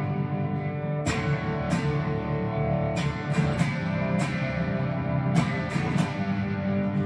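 Firefly Les Paul-style electric guitar with a Seymour Duncan '59 bridge humbucker, played straight into a Marshall Origin 20 amp with no pedal. Picked chords and notes ring out, with about nine sharp pick attacks in a loose rhythm.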